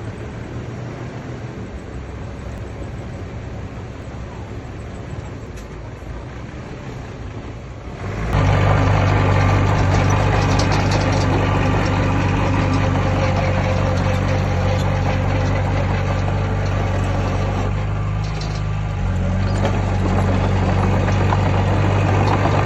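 Heavy earthmoving machine's diesel engine running. About eight seconds in it suddenly gets much louder and works hard, with a short dip near the end before picking up again.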